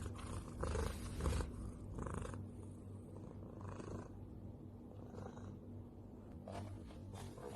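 A domestic cat purring, a low steady rumble heard faintly.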